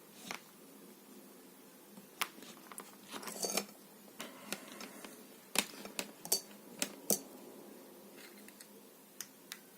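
Scattered sharp clicks and taps of small hard objects being handled, with a brief rustle and a cluster of clicks about three and a half seconds in and the loudest taps a little after the middle.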